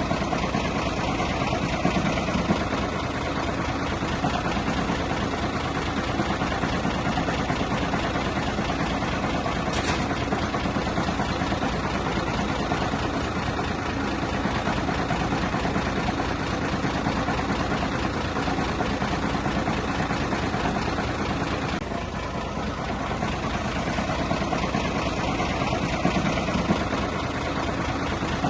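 Heavy earthmoving machine's diesel engine running steadily, with its level swelling slightly a couple of times.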